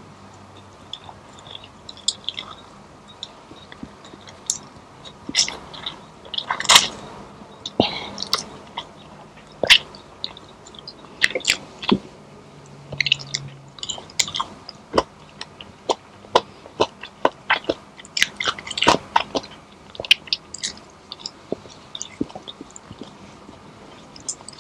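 A person chewing and biting food close to the microphone: irregular wet smacks and clicks, some sharper bites, with no steady rhythm.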